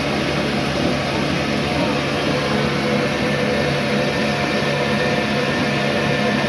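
Old black diesel oil engine running steadily under load while driving a flour mill, a constant dense mechanical drone mixed with the noise of the mill grinding.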